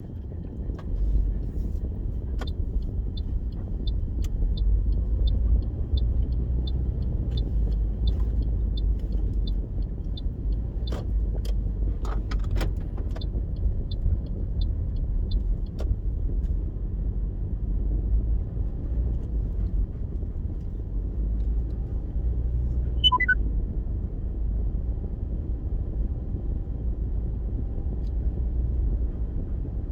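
Car running, heard from inside the cabin as a steady low rumble. For about the first half a regular ticking of about two a second goes on, then stops, with a few sharp clicks near the middle and a brief high squeak about three-quarters of the way in.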